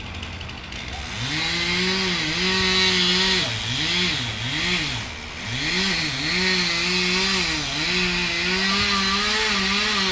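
Chainsaw running up to full revs about a second in, its engine speed dropping and rising twice in quick succession around the middle, then held steady at high revs.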